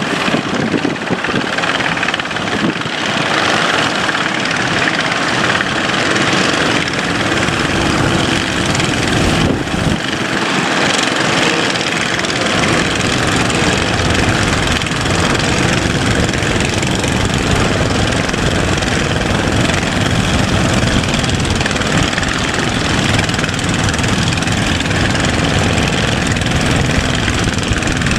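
Boat's engine running steadily under way, under a constant rush of wind and water noise.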